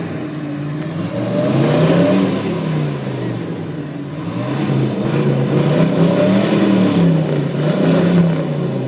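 Car engine revving repeatedly through a flame-thrower exhaust, its pitch rising and falling several times.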